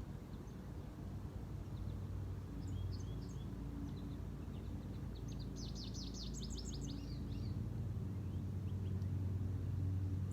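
Small birds chirping, with a quick series of about a dozen high notes midway, over a steady low hum that grows a little louder near the end.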